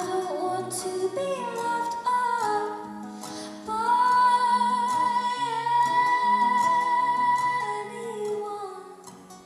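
A woman singing a song live over guitar accompaniment, holding one long note from about four to eight seconds in.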